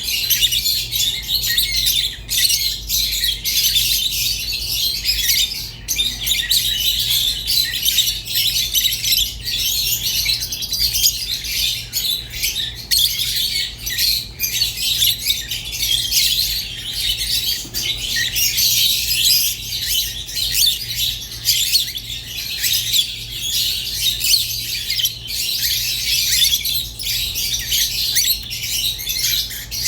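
Pet lovebirds, a rosy-faced lovebird and a Fischer's lovebird, chirping and chattering without a break in dense high-pitched calls, over a faint steady low hum.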